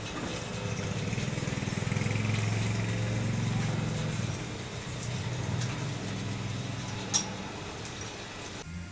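A machine running with a steady low hum that swells a couple of seconds in and eases off again, with one sharp click about seven seconds in.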